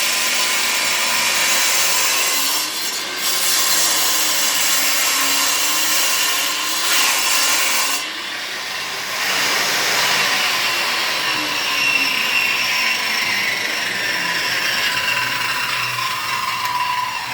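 Power tool running continuously under load, cutting into material, with brief dips about 3 and 8 seconds in and a slowly falling pitch in the second half.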